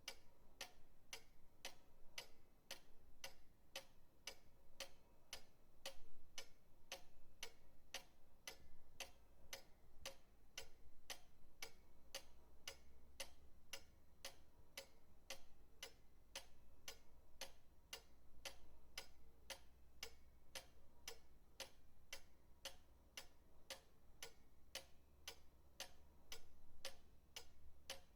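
Pendulum clock ticking steadily, quiet, even ticks coming a little quicker than one a second.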